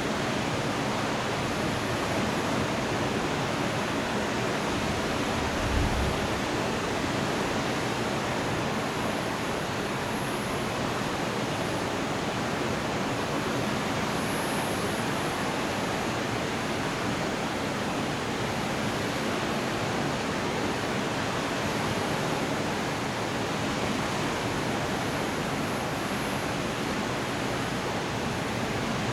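Steady hiss of heavy rain during a thunderstorm, with a brief low thump about six seconds in.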